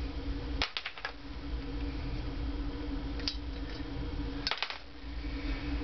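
Valve spring seats being taken out of a Honda CX500 cylinder head, clinking as small metal parts in short bursts: a few clicks about a second in, one near the middle and a cluster near the end. A steady low hum runs underneath.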